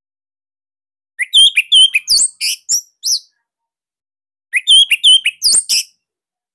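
Orange-headed thrush (anis merah) singing: two bursts of rapid, high, varied notes, the first starting about a second in and the second about four and a half seconds in, with silence between.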